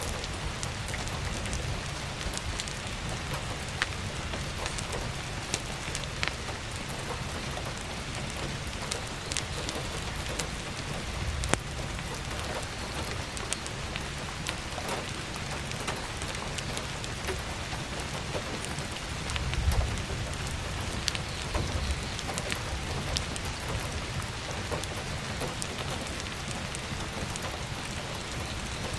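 Steady heavy rain with scattered sharp crackles from burning firewood, and a brief low rumble about twenty seconds in.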